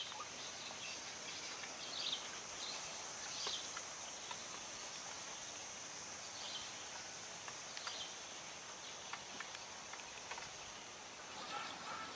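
Steady high-pitched insect drone, with scattered short faint chirps.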